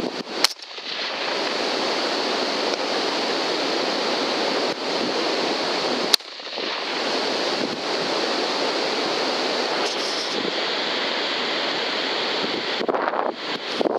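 Strong wind buffeting the microphone: a steady, loud rushing noise. Two brief sharp cracks cut through it, one about half a second in and one about six seconds in.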